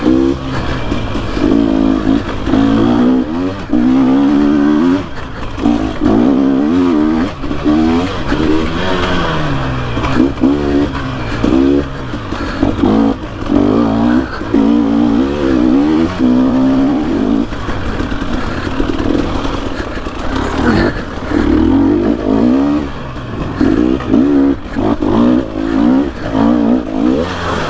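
Dirt bike engine revving up and down again and again as the rider works the throttle on and off through the trail, with a quieter, steadier stretch about two thirds of the way through.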